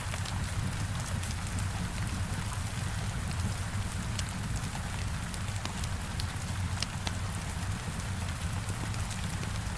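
Heavy rain hitting a window: a steady hiss over a low rumble. A log fire crackles underneath it, with scattered sharp pops.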